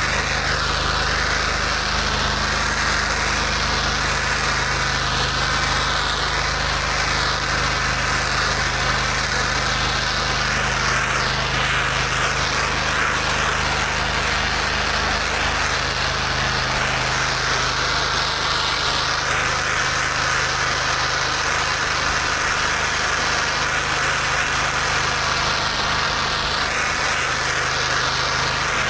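Gas-engine pressure washer running steadily, with a continuous hiss of high-pressure water spraying that swells and fades as the spray moves.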